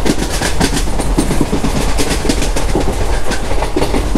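Passenger train running at speed, heard from aboard an ICF coach: a steady loud rumble with rapid, continuous clatter of the wheels over the track.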